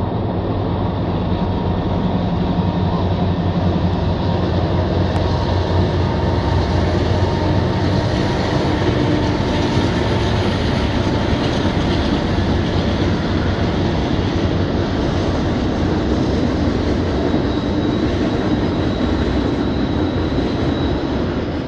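Freight train passing, led by diesel locomotives: a steady low engine drone under the continuous rumble of the cars on the rails.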